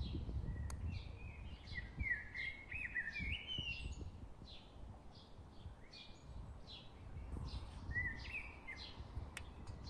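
Birds singing in short warbling phrases and repeated chirps over a low rumble of wind on the microphone, with a single sharp click near the start.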